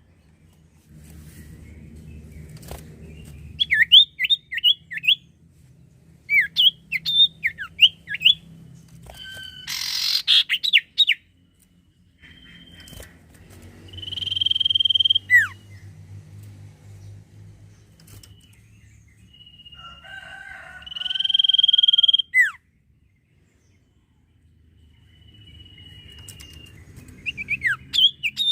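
Common Iora singing: clusters of quick, high, down-slurred chirps alternating with long held whistles that end in a sharp downward slur. A brief rustle about ten seconds in.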